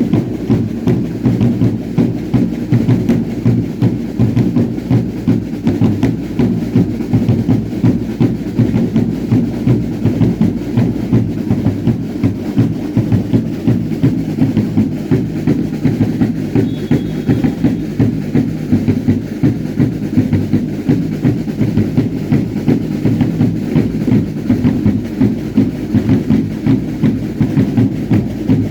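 Drums beating a steady, fast rhythm of about three strokes a second for a traditional Baile Indio dance.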